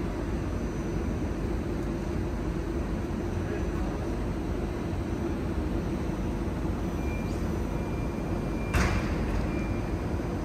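Steady hum and rumble of a parked double-deck TGV's ventilation and on-board equipment running at the platform, with one sharp clack about nine seconds in.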